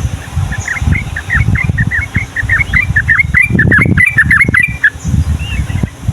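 Yellow-vented bulbul singing a long rolling run of short, quick falling notes, about six a second, that stops about five seconds in. A loud low rumble, like wind on the microphone, runs underneath.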